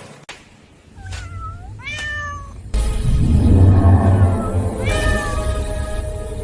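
An animated cat meows three times, short gliding calls. Partway through, a deep low rumble with background music comes in suddenly.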